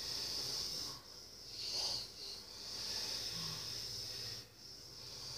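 A sleeping person's noisy breathing: long, airy, hissing breaths with short pauses between them.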